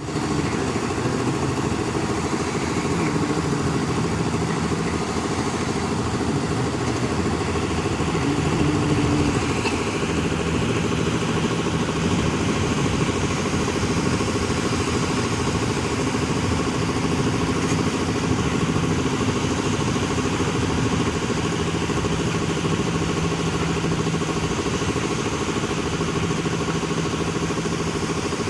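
Excavator's diesel engine running steadily, with small shifts in its note every few seconds.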